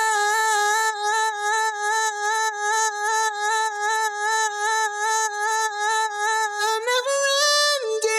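A sung vocal holding one long note with a slow waver, processed with reverb and a Kickstart sidechain plugin so that from about a second in its level dips and swells about twice a second, thumping in time with a kick drum that is not heard. Near the end the note steps up briefly and falls back.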